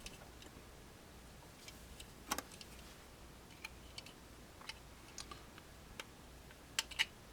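Light, scattered clicks and taps of small tools and model parts being handled at a workbench, about a dozen over several seconds, the sharpest about two seconds in and a quick pair near the end, over a faint low hum.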